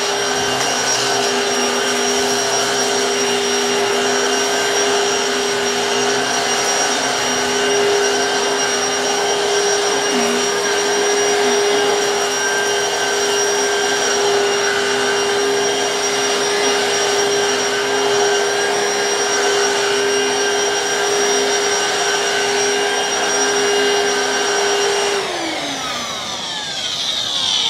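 Black+Decker PowerSeries 16V cordless vacuum running on a rug with its brush roll, a steady high motor whine. About 25 seconds in it is switched off and the whine falls in pitch as the motor spins down.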